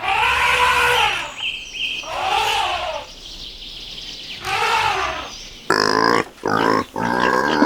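Animal calls: three separate pitched cries, each rising then falling. From about three-quarters of the way in they give way to a pig's rapid, choppy grunting.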